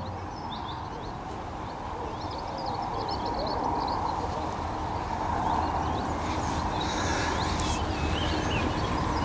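Small birds chirping and twittering on and off over a steady outdoor background hiss, which grows a little louder.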